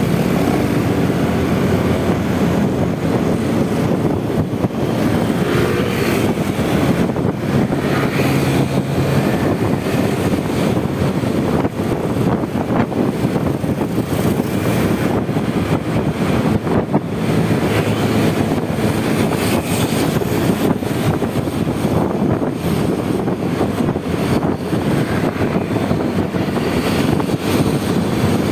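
Steady rush of riding wind on the microphone of a moving Honda Vario 125 scooter, with the hum of the scooter's single-cylinder engine and the surrounding road traffic underneath.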